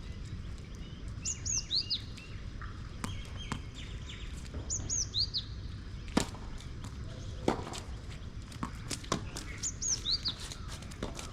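A songbird repeating the same short phrase of high, down-slurred whistled notes three times, roughly every four seconds. Several sharp knocks fall between the phrases, two of them louder past the middle.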